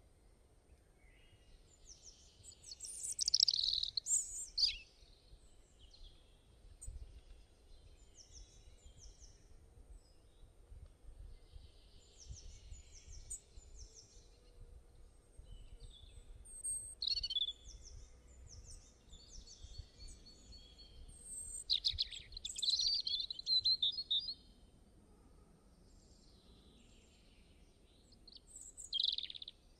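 Small birds chirping and singing, many short high calls overlapping, with louder song phrases a few times, over a faint low outdoor rumble.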